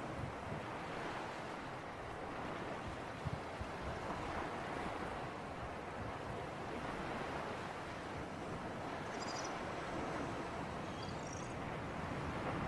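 Seaside ambience of sea breeze and surf: a steady rushing hiss that swells and eases gently. Two faint high chirps come in the second half.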